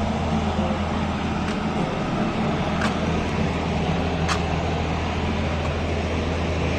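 Motorcycle engines running at a steady low rumble, with a few brief sharp clicks about one and a half, three and four seconds in.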